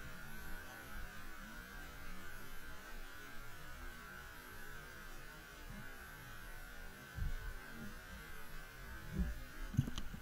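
Underwater ambience picked up by a camera in its housing: a steady hum over low rumble. A few low thuds come in the second half, with a couple of sharp clicks near the end.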